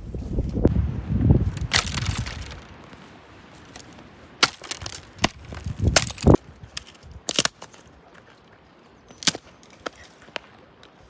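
Dry wood being snapped or chopped: a series of separate sharp cracks at irregular intervals, after some low thudding and rustling in the first couple of seconds.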